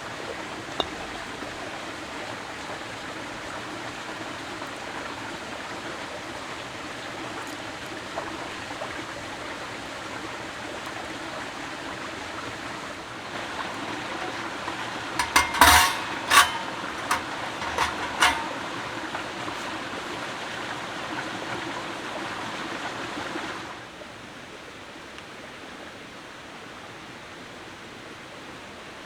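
Steady rushing background noise. About halfway through comes a quick run of five or six sharp metallic clinks, as of metal camp cookware being handled. The rushing drops to a lower level a few seconds before the end.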